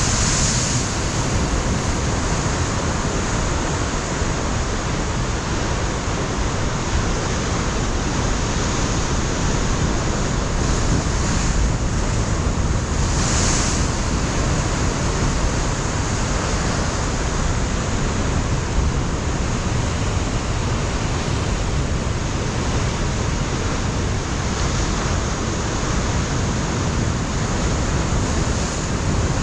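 Ocean surf breaking against a rocky coastline, a continuous wash of waves with wind buffeting the microphone, its low rumble strong throughout.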